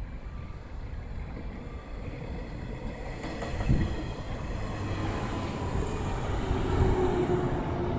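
JR 115 series electric multiple unit pulling into the station and running past close by as it slows. The rumble of its wheels and running gear grows louder as it draws alongside, with a single sharp thump about four seconds in and a steady whine joining near the end.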